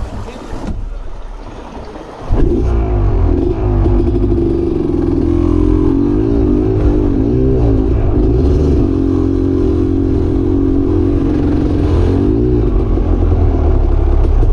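Dirt bike engine running under load, coming in loud about two seconds in, its revs rising and falling as it is ridden.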